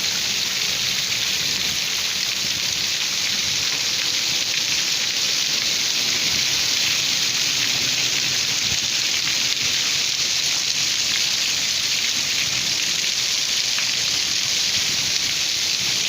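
Heavy rain falling steadily, a dense, even hiss of drops hitting the ground.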